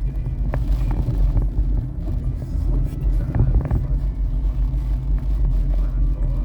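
Storm wind buffeting the microphone: a loud, steady low rumble that wavers in strength, with a few faint knocks.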